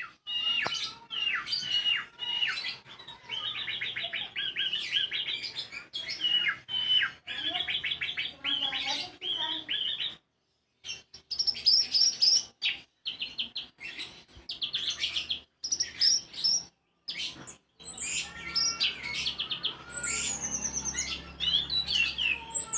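A songbird singing a fast, varied song of chirps and rapid trills, with a few short breaks in the second half, where the phrases climb higher. It is a song recording of the kind played to kept anis (thrush) birds to provoke them into singing.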